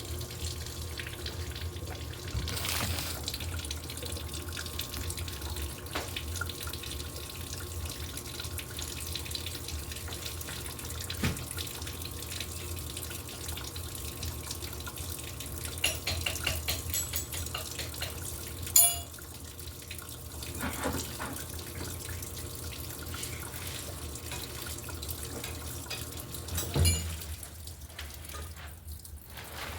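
Electrolux LTE08 washing machine running, with a steady rush of water in the tub and a low motor hum. There is a sharp click about 19 seconds in and a thump near the end.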